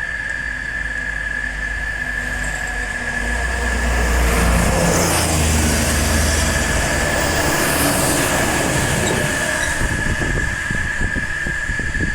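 A steady, high-pitched drone of insects. A passing vehicle's engine and tyre noise swells over it from about three seconds in and fades by about eight seconds.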